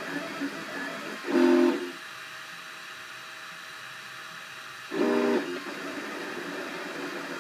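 Cubify 3D printer's stepper motors whining in pitched tones as the print head moves, with two louder half-second tones about a second and a half in and again about five seconds in. A quieter steady hum runs between them.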